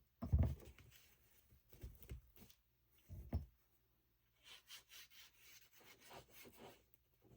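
Vintage paper being handled and rubbed by hand on a craft table, with faint rustling and two soft thumps, one just after the start and one about three seconds in.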